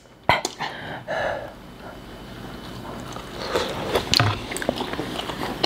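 Chewing and mouth noises of people eating soft focaccia bread dipped in sauce, with a sharp click about a quarter second in and a few smaller clicks later.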